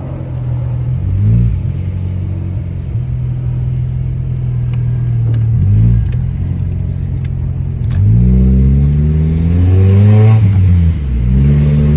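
Car engine running at low revs, with short throttle blips about a second in and about halfway, then revving up strongly twice in the last third.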